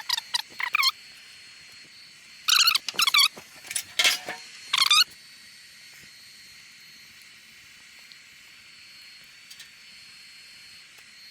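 A run of short, high-pitched animal calls: a few quick ones right at the start, then another cluster between about two and five seconds in, over a faint steady hiss.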